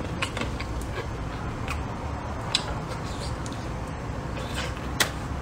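Close-miked chewing of braised pork ribs: wet mouth smacks and a few sharp clicks, over a steady low hum.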